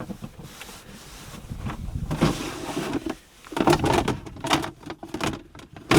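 Household items being shifted and handled in a small cabin: a run of irregular scrapes, knocks and clatters, the loudest clustered in the second half.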